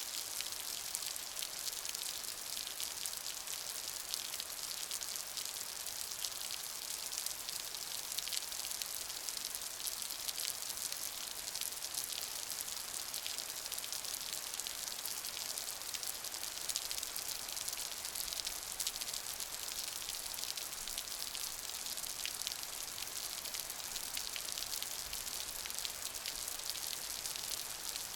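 Steady rain: an even hiss of falling rain with many small drops pattering on a surface.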